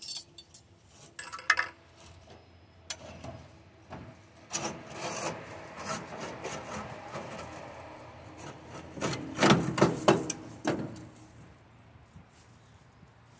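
Engine exhaust header being worked loose and pulled out of the engine bay, metal scraping and grinding against metal with irregular clunks and knocks, loudest about nine to eleven seconds in.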